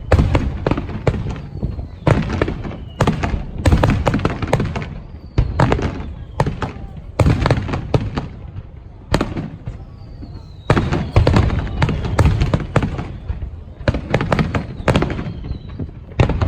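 Aerial fireworks bursting in rapid, overlapping succession: a steady barrage of booms and crackles, with a few faint whistles.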